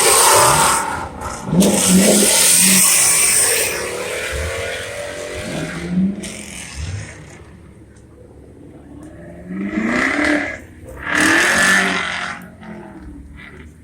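Car engines revving and cars driving past, loudest in the first few seconds and again in two bursts near the end, with a quieter stretch between.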